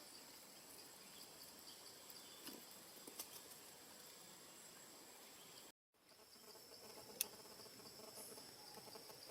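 Faint, steady high-pitched insect chirring as background ambience, with a few faint clicks. The sound drops out completely for a moment a little past halfway, and a single sharp tick comes about two-thirds of the way through.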